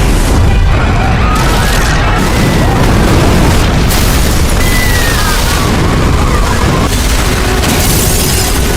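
Continuous heavy rumbling blast of an explosion sound effect, mixed with music, with a few faint gliding tones over it.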